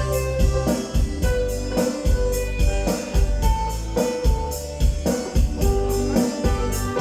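Music with keyboard or organ parts, a steady beat and heavy bass, played through an outdoor PA system with subwoofer cabinets during a warm-up system check.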